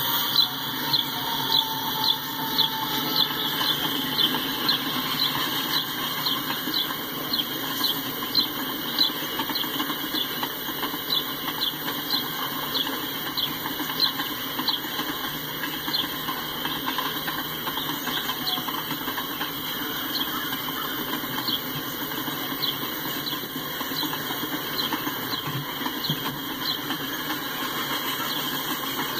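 Freight train of covered hopper cars rolling past on steel rails: a steady rumble of wheels and cars with a high, rhythmic clicking about twice a second.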